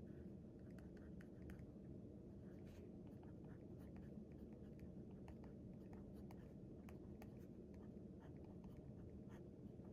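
Faint writing on paper: short scratchy strokes and light taps at an uneven pace over a low, steady room hum.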